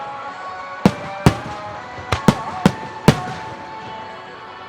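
Aerial firework shells bursting: six sharp bangs in the first three seconds, some in quick succession, each with a short echoing tail, over music with held tones.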